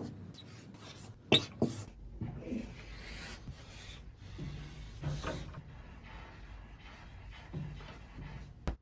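A series of sharp clicks and knocks with a low rustling noise between them, the loudest knock about a second in, ending in one sharp click near the end.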